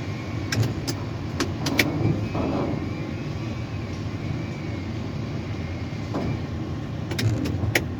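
Steady low rumble of tower crane machinery, heard from the operator's cab, with a faint wavering whine above it. Sharp clicks come in a cluster about half a second to two seconds in and again near the end.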